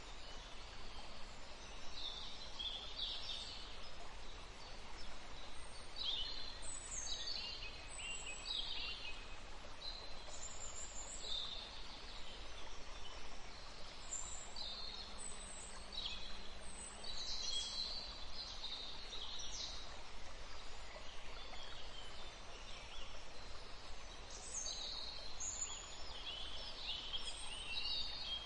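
Songbirds chirping and singing in short, repeated high phrases, many of them falling in pitch, over a steady background hiss.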